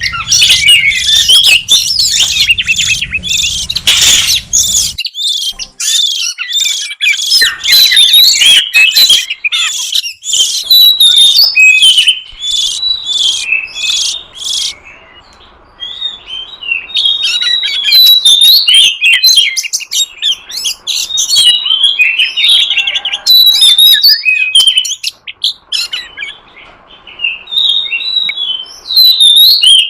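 Oriental magpie-robin (kacer) calls, a lure recording for drawing in wild birds: a dense, rapid run of sharp chirps and chattering notes for the first twelve seconds or so, then sparser groups of calls and whistles.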